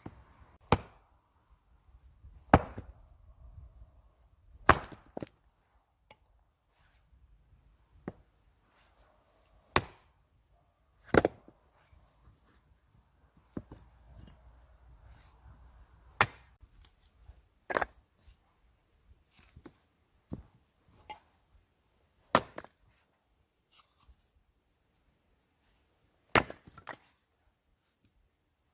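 Axe splitting firewood: sharp single strikes on wood, irregularly spaced every one to four seconds.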